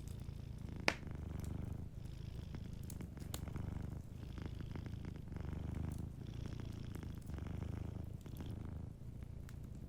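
Domestic cat purring steadily, a low rumble that swells and eases in slow waves with each breath. A single sharp crackle-pop from the fire comes about a second in.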